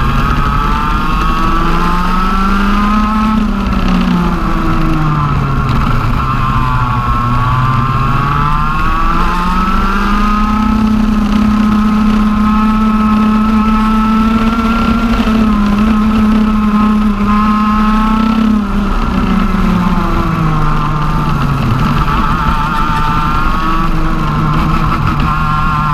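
TM OK-class 125cc two-stroke kart engine, direct drive with no gearbox, running at racing revs through a lap. The note drops twice and climbs back as the kart slows and accelerates, and is held high for about eight seconds in the middle before falling away again.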